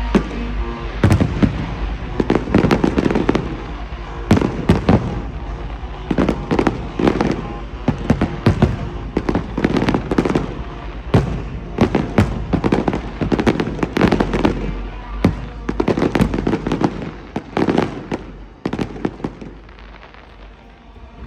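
Aerial fireworks exploding in rapid succession, many sharp bangs and crackling bursts with echoing tails, over faint music. The bursts thin out and grow quieter near the end.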